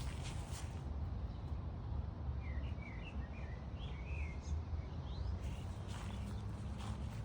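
Outdoor ambience: a steady low rumble, with a small bird chirping a quick run of short notes in the middle and a few light taps near the start and end.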